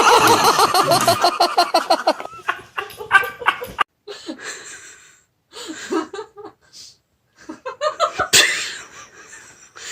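A person laughing hard in quick repeated pulses, which stops about two seconds in. It is followed by scattered short chuckles and bits of voice, with a sharp click a little after eight seconds.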